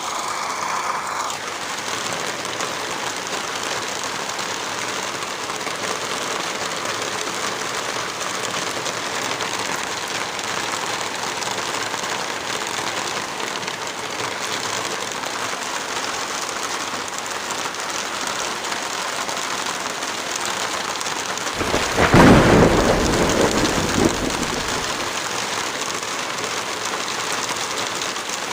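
Steady rain falling, with a roll of thunder rumbling for about three seconds about three quarters of the way through.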